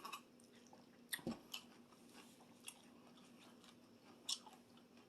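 Close-miked crunching and chewing of a stuffed cucumber salad: a few short, crisp crunches, the loudest just after a second in and again about four seconds in, between quiet chewing.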